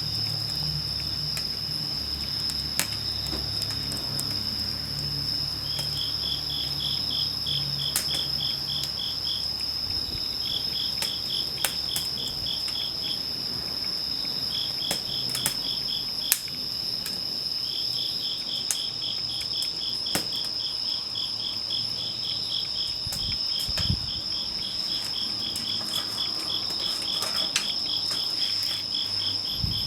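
Crickets singing: one steady high trill throughout, with a second insect chirping in runs of about four pulses a second. Scattered sharp pops and crackles from a wood campfire come through now and then.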